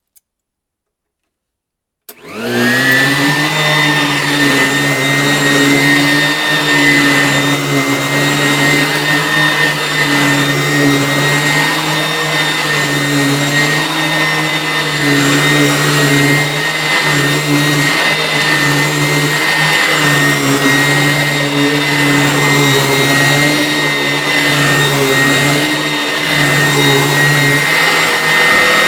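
Vacuum cleaner switched on about two seconds in, its motor spinning up quickly and then running steadily with a high whine.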